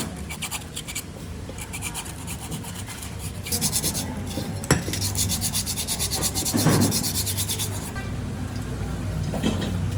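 Metal being rubbed down by hand: quick, rhythmic rubbing strokes in several runs, the longest in the middle. One sharp click comes a little under five seconds in.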